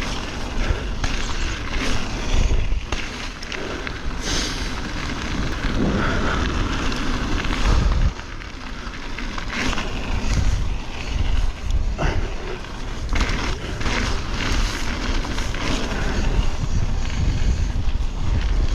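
Mountain bike ridden down a rough trail: tyres crunching over dirt and rocks, with many irregular knocks and rattles from the bike over bumps and a steady rumble of wind on the helmet-camera microphone.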